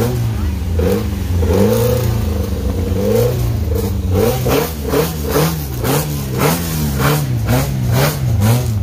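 Rally car engine being revved with the car standing, the revs rising and falling over and over. The blips come slowly at first and then, from about halfway, in quick succession about twice a second.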